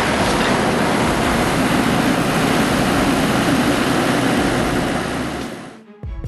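Steady, loud engine noise with a rushing hiss, fading out about five and a half seconds in.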